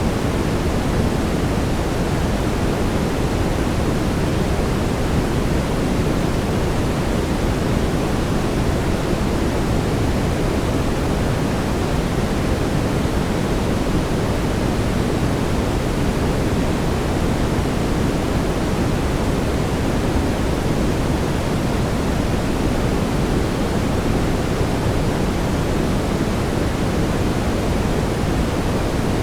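Steady brown noise: an even, unchanging rushing hiss weighted toward the low end, with no tones or events.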